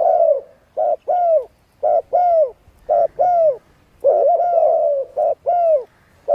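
Doves cooing in short, repeated two-note phrases about once a second, with a longer run of rolling coos about four seconds in.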